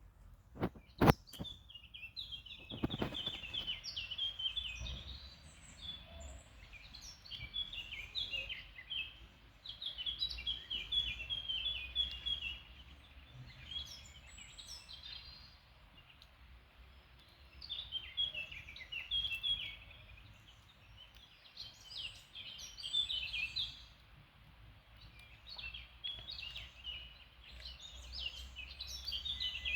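Small birds chirping in repeated bouts of quick, high notes over a faint low rumble, with two sharp knocks about a second in.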